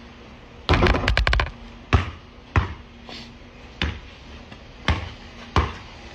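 Basketball bouncing on a court: a quick flurry of bounces about a second in, then single bounces every second or so.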